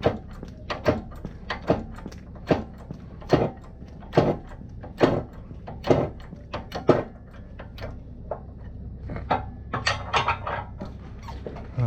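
Repeated hammer blows, about one a second, ten or so heavy strikes, then a quicker run of lighter knocks near the end.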